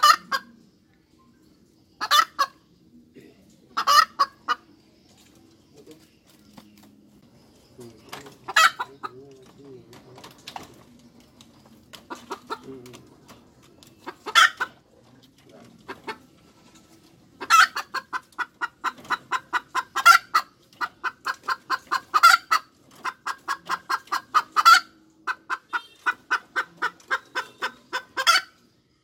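Hen cackling: a few separate loud squawks, then from a little past halfway a fast run of clucks broken every couple of seconds by a louder, drawn-out call.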